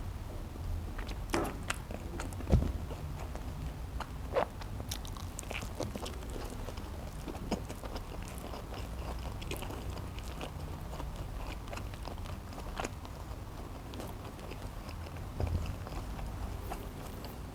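Close-miked chewing of a cheeseburger: soft wet mouth clicks and smacks scattered throughout, with a sharper click about two and a half seconds in.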